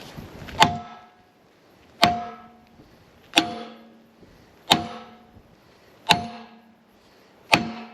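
Six hammer blows on metal, evenly spaced about every second and a half, each leaving a short metallic ring: a bearing being driven out of its housing in a mower, which is not shifting.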